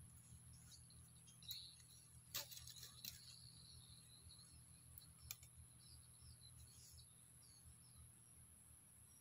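Faint, high bird chirps, with a few sharp clicks about two, three and five seconds in, over a steady low hum and a constant high-pitched tone.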